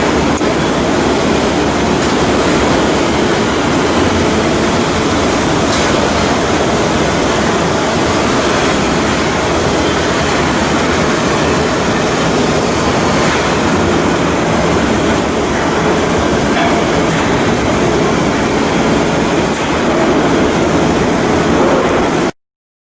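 Steady loud rumbling, clattering noise of heavy work or machinery, with no clear pitch. It cuts out to silence for about a second near the end.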